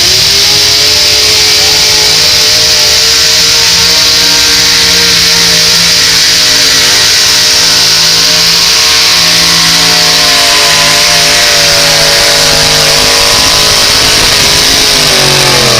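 Pulling vehicle's engine run wide open under heavy load down the track. It is very loud and steady, with the revs climbing at the start, holding high, and then dropping away near the end as the run finishes.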